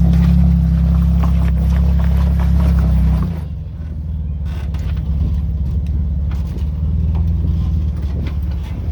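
Jeep engine running with a steady low drone. About three seconds in the sound drops and turns to a rougher, fluttering rumble.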